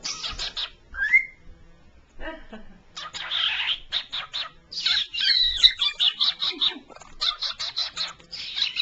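Cockatiel chattering: a rapid run of chirps, squawks and clicks, with a short rising whistle about a second in.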